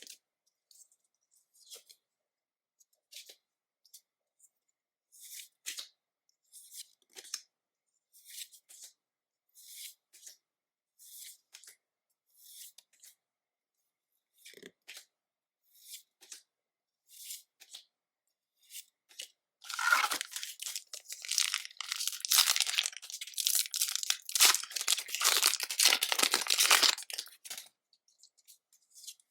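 Pokémon trading cards slid off a stack one at a time, short soft swishes about once a second; then, about twenty seconds in, a foil booster pack wrapper is torn open and crinkled, much louder, for about eight seconds.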